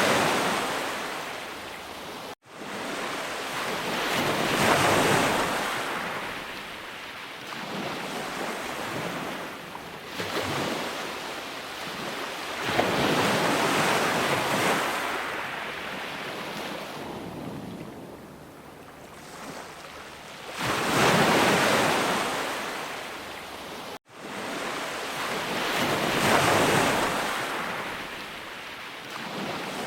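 Sea waves breaking and washing up the shore, each surge swelling and fading over several seconds. The sound cuts out abruptly for an instant twice, about two seconds in and again near the end.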